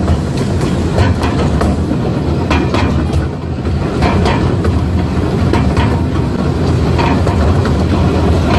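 A zoo passenger train running, heard from aboard: a steady low rumble with irregular clicks and clatters from the wheels on the track.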